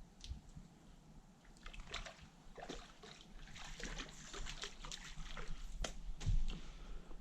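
Water splashing and sloshing in many short, irregular bursts, thickest in the middle and latter part.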